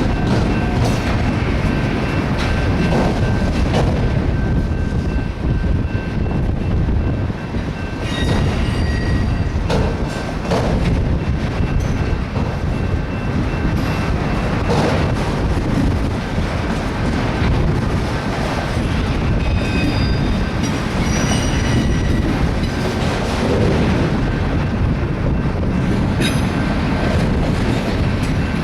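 BNSF freight train of auto rack cars rolling past, a steady loud rumble of wheels on rail. Thin high wheel squeal rings through the first half, with brief higher squeals now and then.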